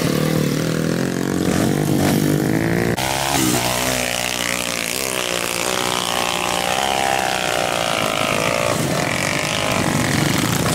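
Dirt-bike engine revving hard as the motorcycle climbs a steep muddy hill, its pitch rising and falling with the throttle. The sound changes abruptly about three seconds in.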